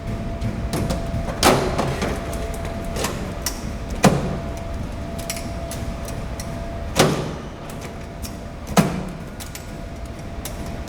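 A replacement filter being handled and slid into the filter housing of a ventless fryer: four louder knocks with lighter clicks and scrapes between them, over a steady low rumble and a faint steady tone that stops about seven seconds in.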